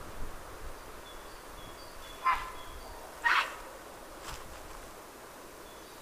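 Bird calls: three short harsh calls about a second apart, the first two loud and the third fainter, with faint high whistled notes of other birds in the background.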